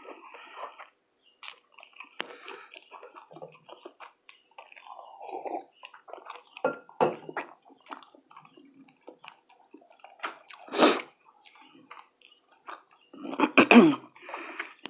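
Mouth sounds of eating whiting fish, grits and toast: chewing with many small wet clicks, a louder short burst of noise about eleven seconds in, and a brief voiced sound near the end.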